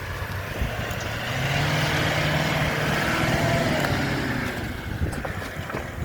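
A motor vehicle's engine passing close by: it grows louder toward the middle, its note bending up and then down, and fades again near the end.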